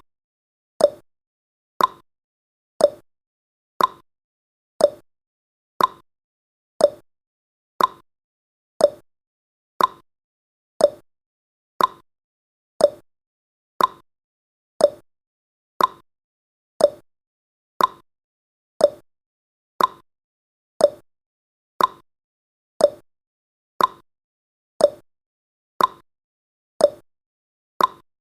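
Clock-style ticking from a countdown timer sound effect: one short tick every second, steady and evenly spaced, each dying away quickly.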